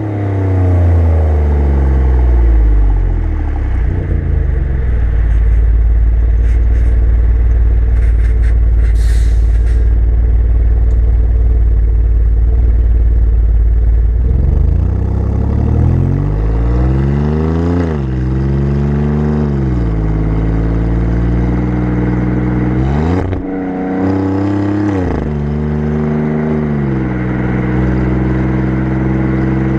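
Alfa Romeo Giulia Quadrifoglio's twin-turbo V6 exhaust, picked up at the rear bumper: a steady low rumble while cruising for the first half. Then the note rises and drops several times as the car accelerates and shifts up through the gears, settling to a steady pitch near the end.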